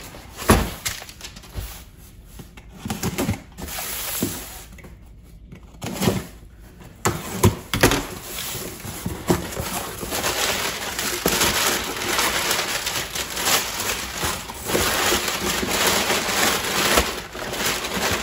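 Parcel packaging being opened and rummaged through: a few sharp knocks in the first eight seconds, then continuous crinkling and rustling of plastic and cardboard from about ten seconds in.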